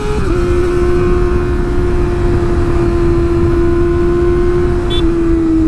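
Kawasaki sport motorcycle engine held at steady high revs while riding, its pitch sagging slightly near the end, over a low rush of wind on the microphone.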